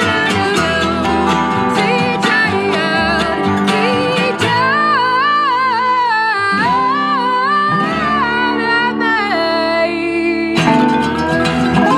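Acoustic band playing a song: guitar with a sung melody line wavering over the top, changing to a new passage about ten and a half seconds in.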